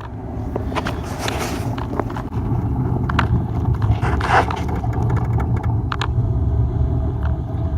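Car driving: a steady low rumble of engine and road noise, with scattered light clicks and knocks.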